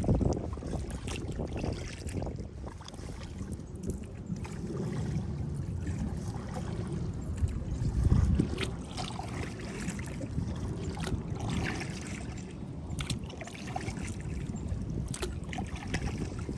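Kayak being paddled on a lake: scattered small splashes, drips and light knocks of the paddle over a low rumble of wind on the microphone, with a louder low thump about eight seconds in.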